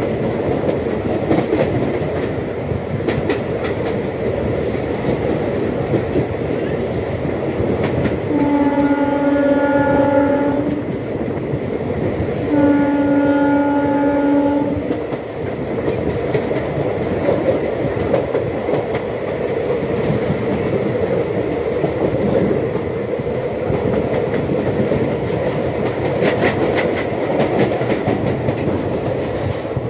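A long freight train of open steel wagons rushing past close alongside, heard from a moving passenger train: a steady rumble and clatter of wheels over rail joints. A train horn sounds twice, about a third of the way in, each blast lasting about two seconds with a short gap between them.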